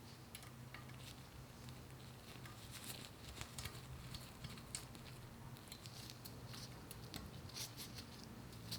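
Faint, irregular light clicks and taps, with a low steady hum beneath.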